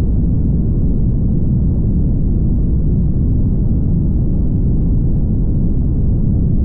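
Steady low rumble of a car driving at highway speed: road and tyre noise with wind, unchanging throughout.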